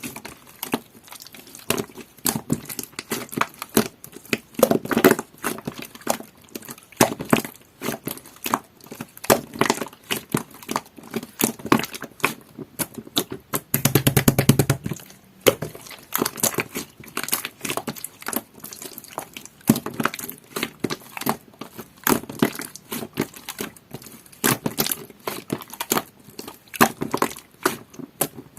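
Hands kneading and pressing jelly-textured green slime that has pearl (mermaid) powder mixed in, giving a dense run of small wet pops and clicks as air pockets burst. There is a louder, fuller squelch about halfway through.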